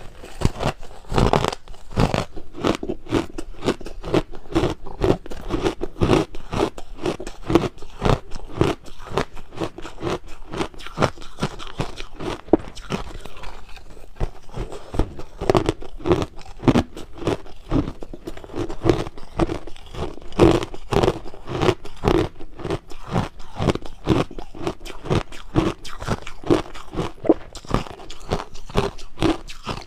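Crushed ice being bitten and chewed close to the microphone: a steady, unbroken run of crisp crunches, several a second.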